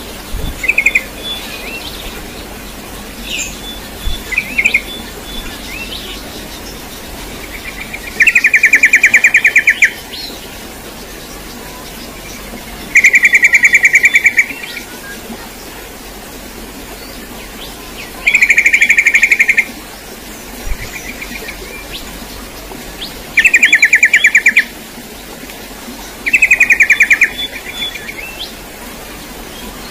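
A bird's trilled call, five loud rapid trills each about a second and a half long and spaced about five seconds apart, with a few shorter chirps near the start.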